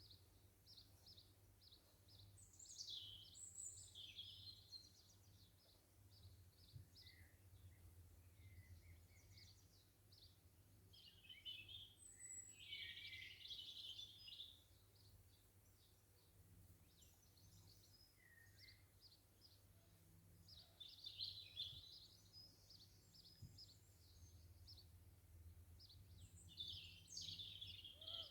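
Faint garden birdsong: birds singing short, repeated high chirping phrases, with louder bursts around a quarter, half and three quarters of the way through, over a faint steady low hum.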